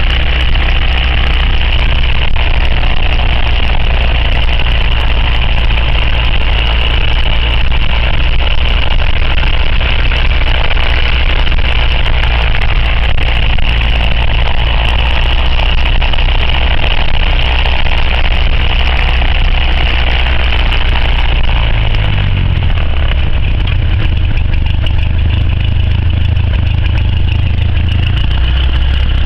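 Cessna 172's piston engine and propeller running steadily, heard from inside the cabin; the low drone shifts in pitch about three-quarters of the way through as the engine speed changes.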